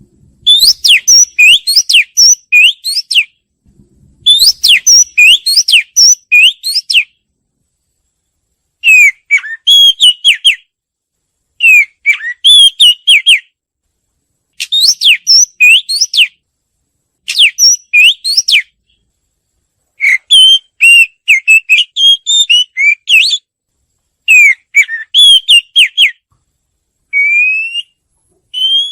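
Oriental magpie-robin singing: about ten short phrases of clear, quickly varied whistled notes, each a second or two long with brief pauses between. Near the end come a few slower rising whistles.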